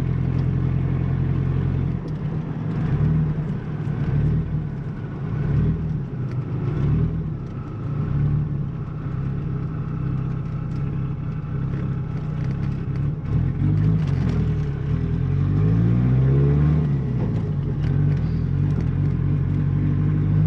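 The 1.8T 20-valve turbocharged four-cylinder of a Mk2 Golf running at low speed, its note shifting up and down as it is driven, with a few rises and falls in pitch about two-thirds of the way through before settling to a steady note near the end.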